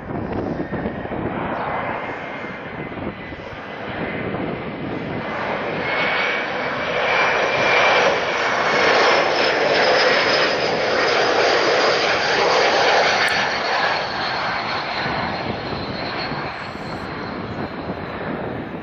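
Jet airliner's engines passing close by on a landing approach: the sound builds to its loudest about halfway through, then fades, with a high whine that drops slightly in pitch as it goes by.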